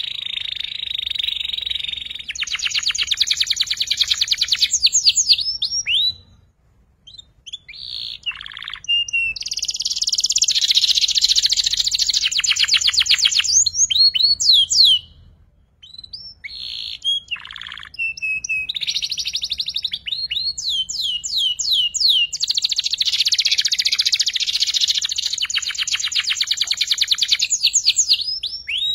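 Young canary singing its learning song: long phrases of rapid chattering trills, the 'ngeriwik' of a juvenile still practising. There are three phrases of several seconds each, with short pauses between, and each ends in a few quick sweeping whistled notes.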